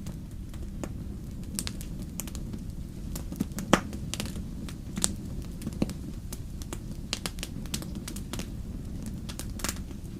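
Wood fire in a fireplace crackling, with many irregular sharp pops, the loudest about four seconds in, over a steady low rumble.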